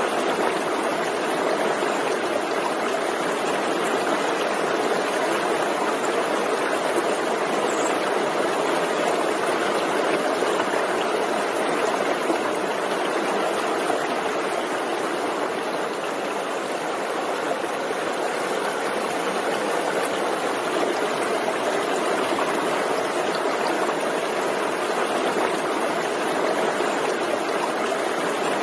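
Forest stream flowing over rocks: a steady rushing and babbling of water.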